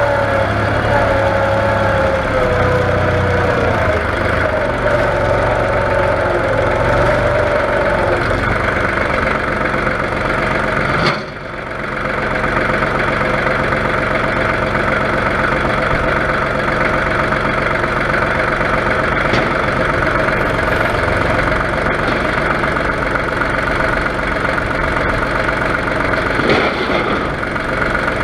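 Tractor engine running steadily, its note falling over the first few seconds, with a brief drop in level about eleven seconds in.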